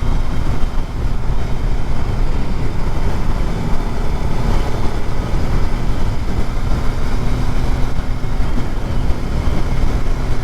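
Motorcycle engine running steadily while riding, under a steady rush of wind noise on the helmet-mounted microphone.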